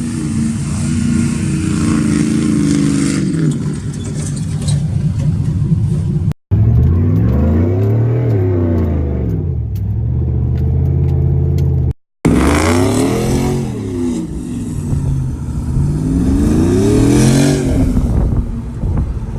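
A truck's engine revving up and back down several times, heard in three short clips joined by abrupt cuts about a third and two thirds of the way through. The first clip holds a steadier engine drone that sinks a little in pitch.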